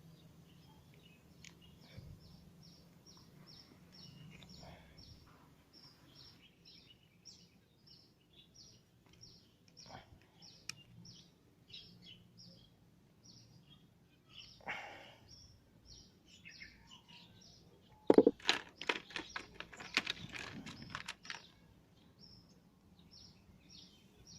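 A bird chirping over and over, short high notes about three a second. A loud burst of sharp clicks and scrapes comes about eighteen seconds in and lasts some three seconds.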